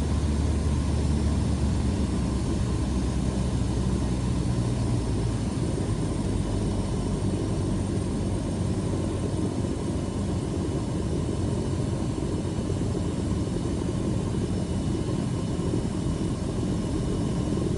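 Cessna Skyhawk's piston engine and propeller droning steadily, a low, even noise with no breaks.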